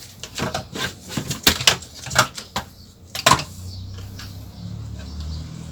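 Clattering and knocking of parts and tools being handled inside a speaker cabinet, with a dozen or so sharp knocks in the first three seconds. A low steady hum comes in about three and a half seconds in.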